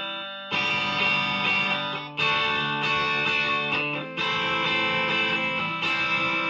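Epiphone Les Paul electric guitar on its bridge pickup, coil-split to single coil, played through the classic gain channel of a Marshall amp. Four chords are strummed, about two seconds apart, and each is left to ring.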